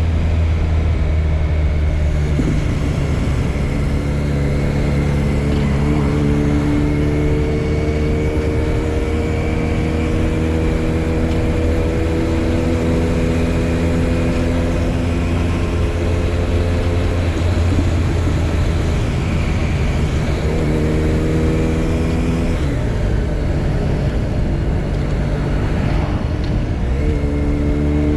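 Motorcycle engine running under way, heard from a camera on the bike, its note rising slowly over long stretches and breaking off to start again lower twice, about two thirds of the way in and near the end. Heavy wind rush on the microphone throughout.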